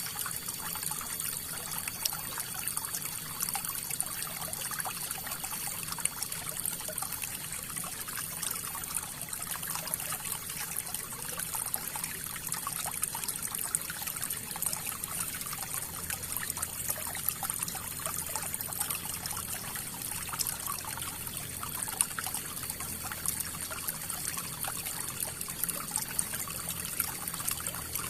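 River water flowing over stones, a steady splashing and trickling.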